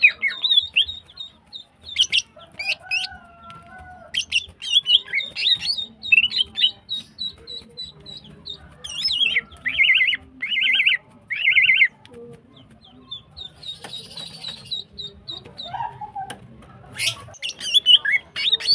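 Female green leafbird (cucak ijo) calling in breeding condition: rapid high chirps, whistles and short trills with many repeated ticking notes, and three buzzy trills in a row about ten seconds in.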